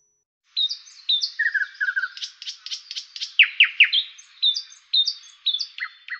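Small songbird singing a quick run of varied chirps, short down-slurred notes and brief trills, starting about half a second in.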